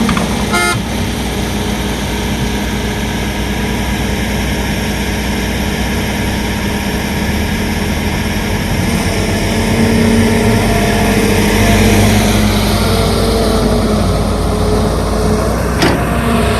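Heavy diesel engines of construction machinery working, running steadily and then revving up for a few seconds around the middle, with a sharp knock shortly after the start and another near the end.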